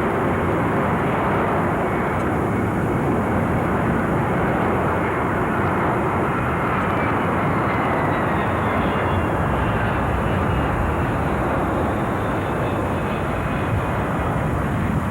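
Jet aircraft engines running with a steady, loud rushing noise. A faint whine slides down in pitch through the middle.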